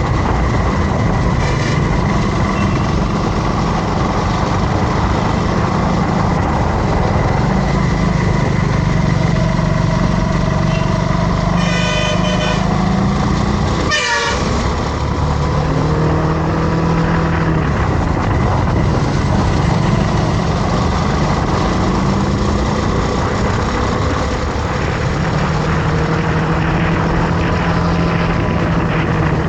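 Motorcycle engine running under way, with steady wind and road noise and the engine note rising and falling with the throttle. A vehicle horn toots briefly about twelve to fourteen seconds in.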